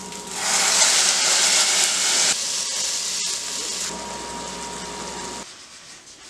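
Food sizzling in cooking pots: rice being stirred and sautéed, then chicken pieces cooking. The hiss is loudest in the first two seconds and drops in steps as the short clips cut, with a sharp click about three seconds in.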